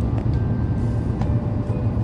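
Steady low rumble of a motor vehicle running, with faint music over it.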